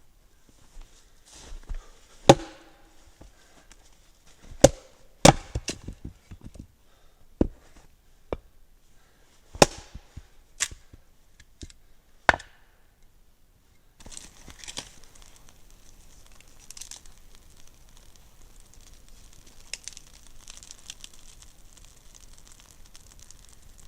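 Wood being chopped: about eight sharp, irregularly spaced blows over twelve seconds. After that comes a steady crinkling rustle with small cracks.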